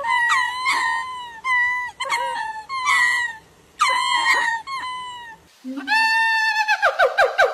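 Monkey calls: a string of high, pitched squeals that bend up and down in pitch, then a fast run of repeated chirps near the end, several a second.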